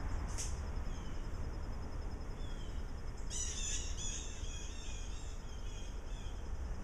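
A small bird sings a quick run of chirping notes starting about three seconds in, trailing off over the next few seconds, over a steady low rumble.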